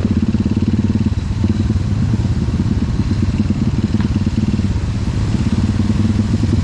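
Trail motorcycle engine idling steadily with a rapid, even pulsing.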